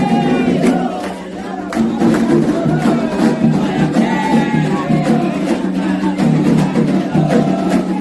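Candomblé ceremonial music: a group singing a chant together over a steady beat of percussion strikes.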